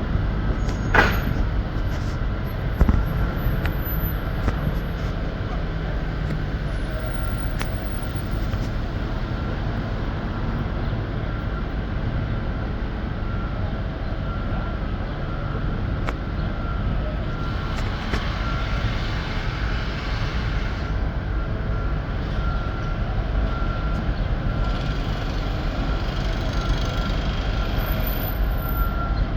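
Track-maintenance crane's engine running steadily, with a sharp knock about a second in and a short warning tone beeping in repeated pulses during the second half.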